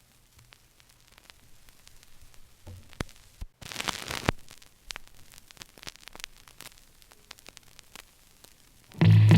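Crackle and hiss of a record between tracks, with scattered clicks and a steady low hum. A louder rush of noise comes about four seconds in, and a song starts abruptly near the end.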